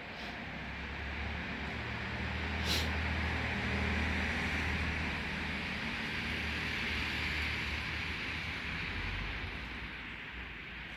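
A motor vehicle passing on the street: engine hum and tyre noise swell over the first few seconds and slowly fade away, with one brief click about three seconds in.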